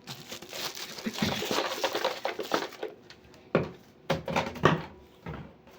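Rustling and clattering from objects being handled for about three seconds, followed by a few separate sharp knocks.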